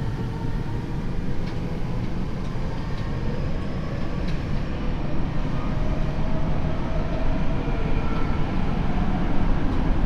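Tokyo Metro 7000 series train running between stations, heard from inside the car: a steady low rumble of wheels on rail with faint tones from the Hitachi IGBT inverter and traction motors. It grows slightly louder towards the end.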